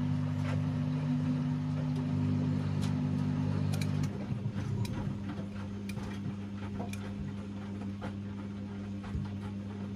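Washing machine drain pump humming as it pumps out after the main wash. Its hum changes about four seconds in, and light ticking and clicking follow.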